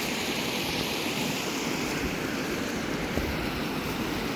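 Waterfall water rushing in a steady, even roar with no breaks.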